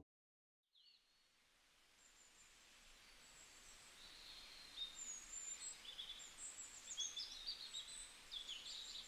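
Faint birdsong: scattered high chirps and short whistles over quiet outdoor background, starting after a second of silence and growing busier in the second half.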